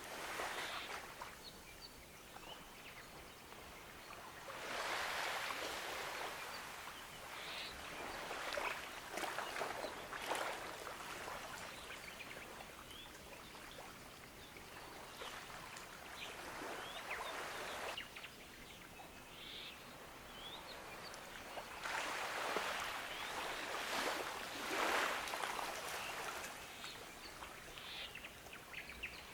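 Gentle ocean waves washing onto a beach, swelling and falling back every few seconds, with faint bird chirps.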